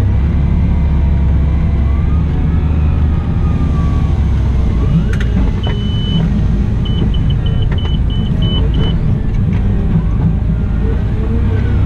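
Cat 972M XE wheel loader running and working, its engine and drivetrain rising and falling in pitch as it moves. About six seconds in, one longer high beep sounds, then a quick run of about eight short beeps, with a few sharp clicks.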